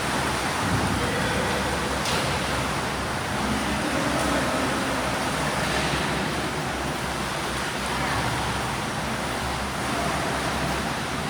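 Swimming pool ambience: a steady wash of water and echoing hall noise, with faint distant voices.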